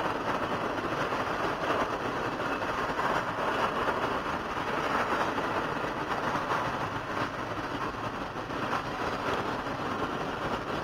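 CSX intermodal double-stack train rolling past: steady noise of its container well cars' steel wheels running on the rails.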